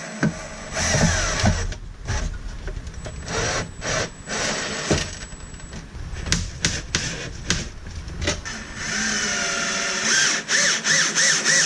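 Power drill driving screws to fasten an air conditioner unit down to a van floor: several short runs of the motor's whine amid knocks and clatter, then a longer run near the end with the pitch wavering as the screw goes in.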